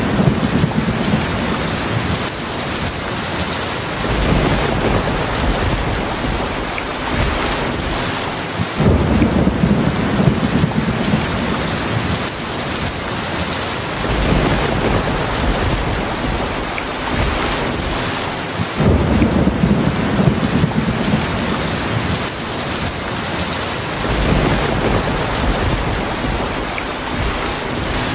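Heavy rain falling steadily, with low thunder rumbling in and swelling about every five seconds.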